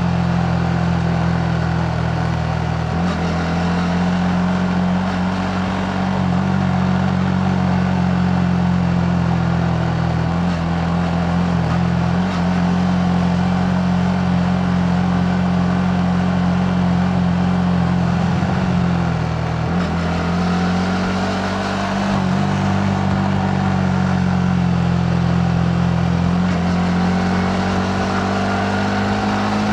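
Yamaha MT-15's single-cylinder engine running under way at fairly steady revs, its note dipping and rising a few times with throttle changes, over wind and road noise.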